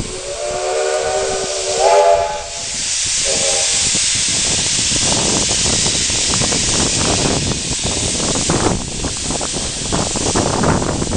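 Steam locomotive whistle from a K-class engine sounding one long blast that steps up in pitch near its end, then a short second blast. A loud, steady rushing hiss follows, with scattered clicks.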